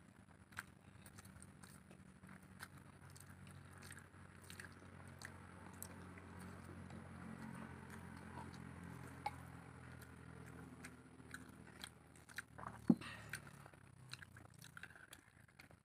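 People eating rice and egg curry by hand: soft chewing and small wet mouth clicks, with fingers squishing rice on the plates. A low hum runs underneath, and a single sharp knock lands about 13 seconds in.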